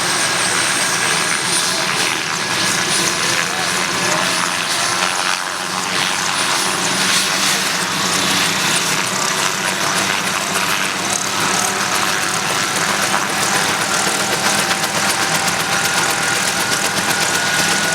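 Aircraft engine noise, steady and loud, with a faint tone that rises slightly near the end.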